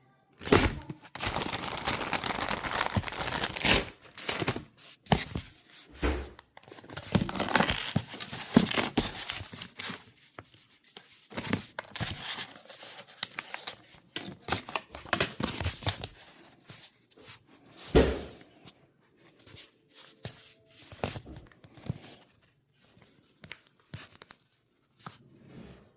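Material being torn and crinkled by hand, in irregular bursts, with a sharp knock about eighteen seconds in.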